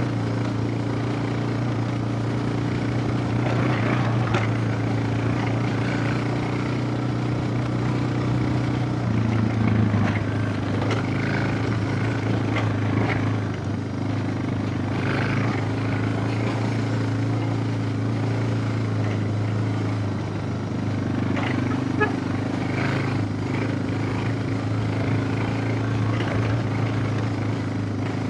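Suzuki DR650's single-cylinder four-stroke engine running at a fairly steady speed, with small changes in pitch about ten and twenty seconds in.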